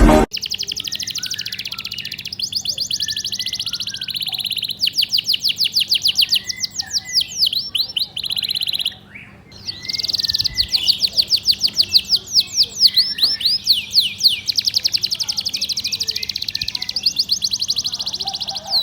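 Domestic canary singing a long, fast song of rapid high trills and rolls of repeated notes. It breaks off briefly about halfway through, then starts again.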